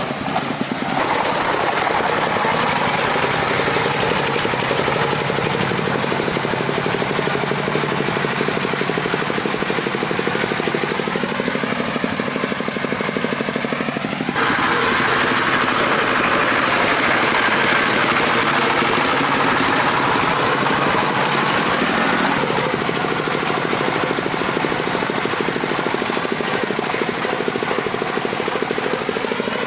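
Farm tricycle truck's diesel engine running with a hard, chugging knock. Its pitch wavers and its sound shifts about halfway through and again some eight seconds later, as the engine speed and load change.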